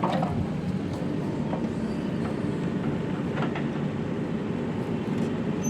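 Heavy diesel machinery engine running steadily with a deep rumble, with a few faint knocks.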